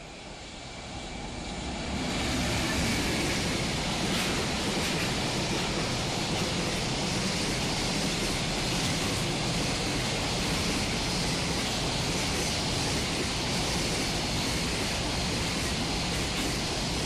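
Container freight train passing close by: a steady rush of wheels on rail and wagons rolling past, building over the first two seconds and then holding.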